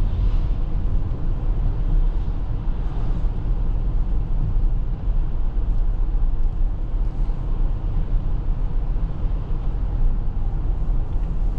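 Steady low rumble of tyre and road noise inside the cabin of a Toyota RAV4 hybrid driving on snowy roads.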